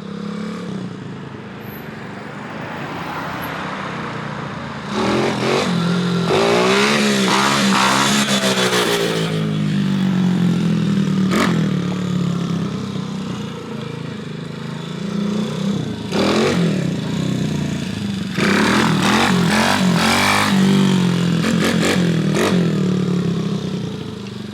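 125cc Coolster semi-automatic pit bike's single-cylinder four-stroke engine running and revving while being ridden, its pitch climbing and dropping through the gears. It gets much louder twice, about five seconds in and again near eighteen seconds, as the bike accelerates close by.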